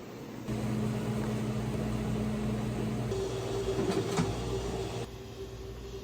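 A steady low machine hum that starts about half a second in, with a higher steady tone joining about three seconds in and a short click near four seconds; the hum drops back about five seconds in.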